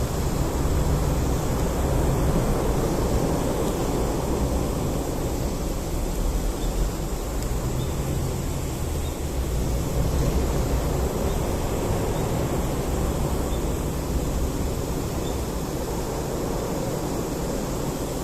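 Bonfire burning with a steady low rumbling noise and no distinct crackles.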